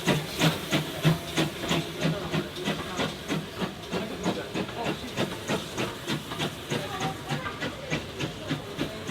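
Steam locomotive working under steam, its exhaust beats coming evenly at about three a second over a steady hiss.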